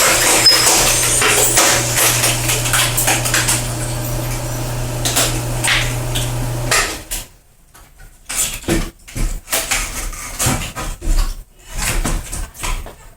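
Belt-driven screw log splitter running: its electric motor hums steadily while wood cracks and knocks against the splitting screw. About seven seconds in the hum stops suddenly, leaving scattered clattering knocks of wood.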